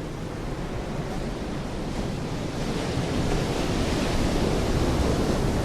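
Sea surf washing on the shore, with wind on the microphone; the wash swells gradually and is loudest a little past the middle.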